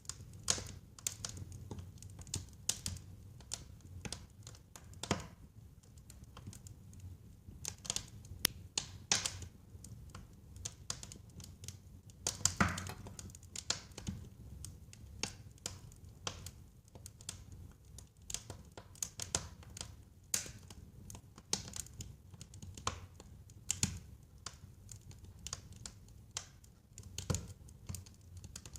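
Fire in a fireplace crackling: irregular sharp pops and snaps over a low steady rumble, with one louder pop about twelve seconds in.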